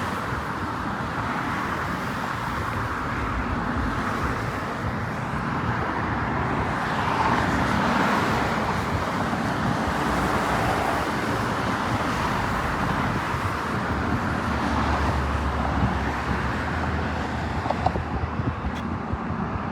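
Steady outdoor rushing noise with a low rumble, swelling slightly in the middle and with a deeper rumble near the end.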